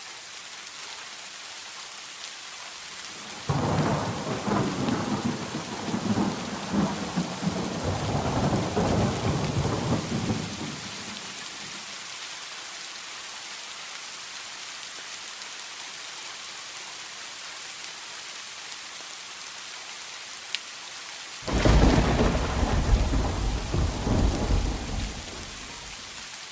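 Steady rain with two claps of thunder. The first breaks suddenly about three and a half seconds in and rumbles for some seven seconds; the second breaks near the end and rumbles for about four seconds.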